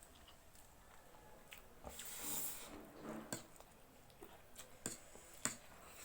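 Quiet eating sounds of extra-spicy instant noodles being eaten: mouth and chewing noises with a few sharp clicks scattered through, and a short hiss about two seconds in.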